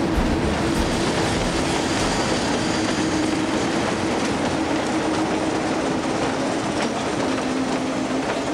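A train running past on the track: a steady rolling rush of wheels on rail, with a low drone that drops in pitch about seven seconds in.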